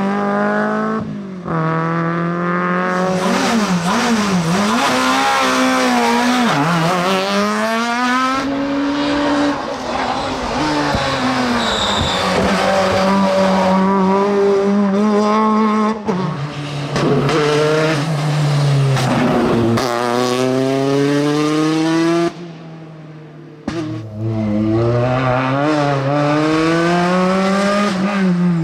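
Rally car engine revved hard, pitch climbing through each gear and dropping sharply at the shifts and braking, with some tyre squeal. Near the end the sound drops away suddenly for about a second, then a car is heard revving up again.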